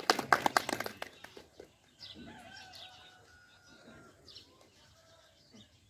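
A quick run of sharp clicks and knocks in the first second and a half, then faint birds chirping in the background.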